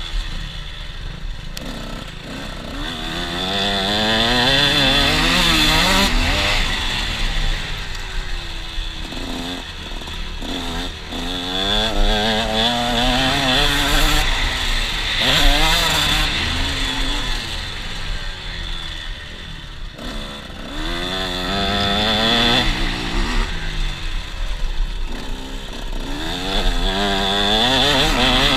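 KTM 125 SX two-stroke motocross engine revving hard, its pitch climbing through the gears and dropping back over and over as the throttle is opened and shut, with wind rumble underneath.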